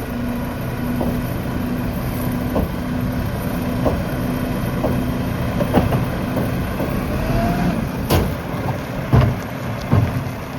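Mack rear-loader garbage truck's diesel engine running steadily while its Heil PowerTrak packer works, with scattered clanks and knocks, a short rising whine about seven seconds in, then a sharp crack and two heavy thumps near the end.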